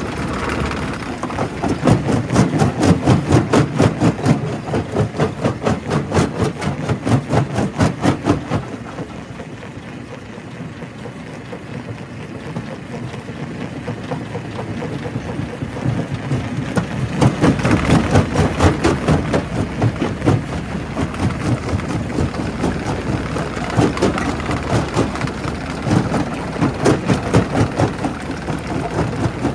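Primary rock crusher at work: a dense, rapid clatter of rock knocking and breaking over the steady run of the machine. The clatter eases off for several seconds in the middle, then builds up again.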